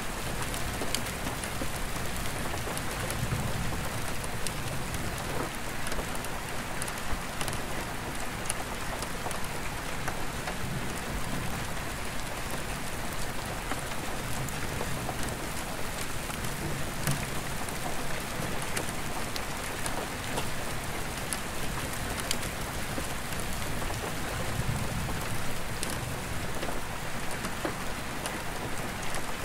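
Steady rain falling on an attic skylight, with many sharp drop ticks on the glass. Distant thunder rumbles low several times.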